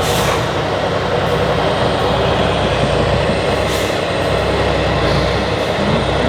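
Heavy off-road trial truck's diesel engine running steadily, a dense continuous rumble, with brief hisses near the start and about four seconds in.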